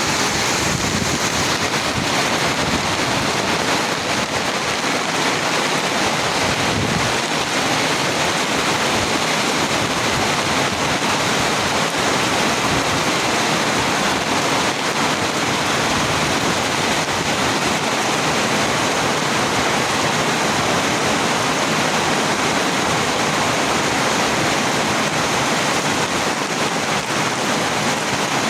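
Heavy rain falling, a loud, steady hiss without a break.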